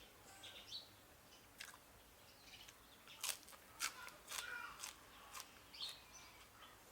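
A person chewing and biting into crisp food close to the microphone, with several sharp crunches in the middle and faint bird chirps in the background.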